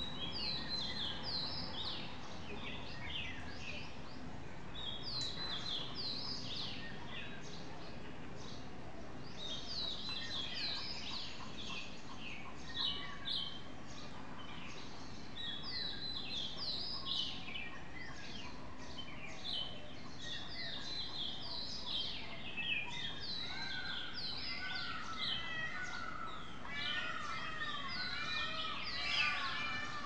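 Several small birds chirping in quick runs of short, downward-sweeping notes, busiest near the end, over a steady background hum.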